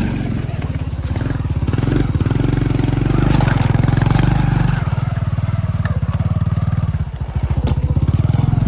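Motorcycle engine running under way with a steady, pulsing low note; it eases off briefly about seven seconds in, then pulls again.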